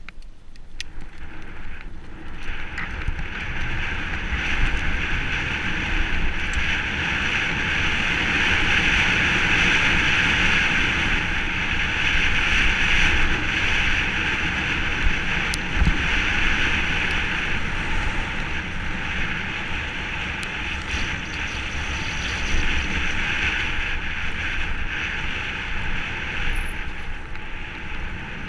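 Mountain bike running downhill on a dirt trail: tyre rumble and the bike rattling over the ground, with steady wind noise on the microphone and a few sharp clicks.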